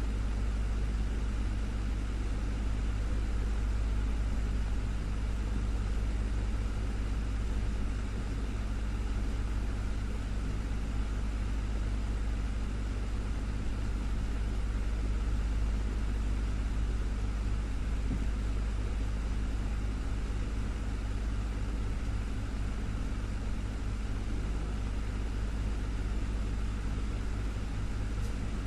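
Desktop fan running steadily: an even whir of moving air over a strong low hum from the motor.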